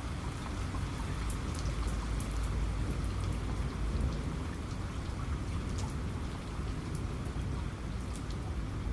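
Steady rain falling, with individual drops tapping sharply close by over a deep, constant low rumble.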